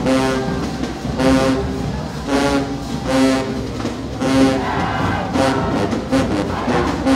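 Marching band brass playing loud, short held chords over and over, about one a second.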